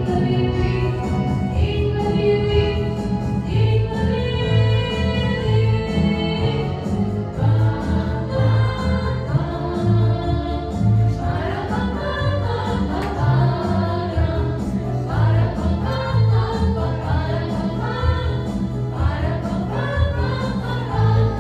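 A song sung by a choir over instrumental backing with a steady, regular bass beat.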